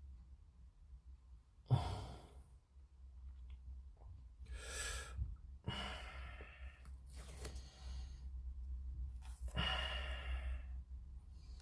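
A person breathing out heavily close to the microphone, about five long exhalations spread a second or two apart, over a steady low hum.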